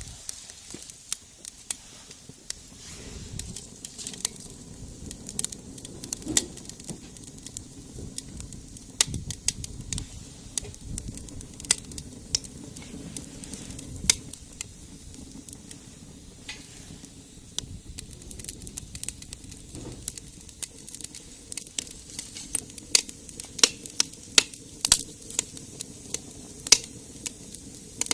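Egg frying in a pan over a wood-fired rocket stove: a steady sizzle with frequent sharp pops and crackles, coming thicker near the end.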